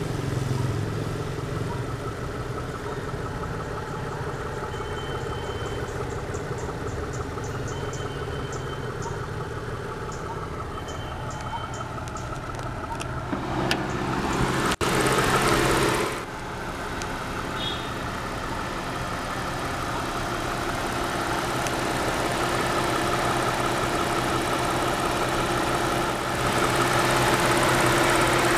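2002 Proton Perdana's 2.0-litre DOHC 24-valve V6 idling steadily. A little past halfway there is a loud rush of noise lasting about a second and a half, around when the bonnet is opened. The engine grows louder near the end, heard from over the open engine bay.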